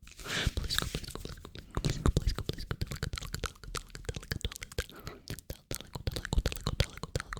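Close-miked ASMR hand sounds: rapid crackling, clicking and rubbing of hands or gloves, dense and uneven throughout.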